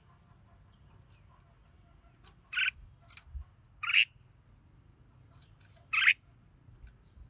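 Red-whiskered bulbul giving three short, loud calls a second or two apart, with fainter short notes between them.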